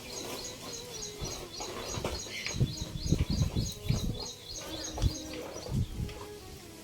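A bird calling a rapid, even run of short high chirps, about four a second, that stops about five seconds in, over irregular low rumbling and thumps.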